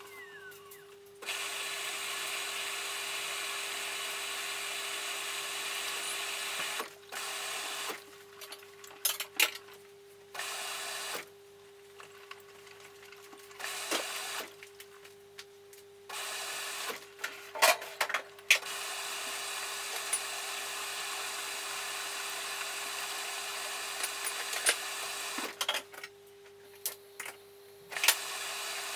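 Samsung 9 kg washing machine starting a cotton cycle: it runs in bursts of about one to seven seconds with short pauses between, with scattered clicks over a steady low hum.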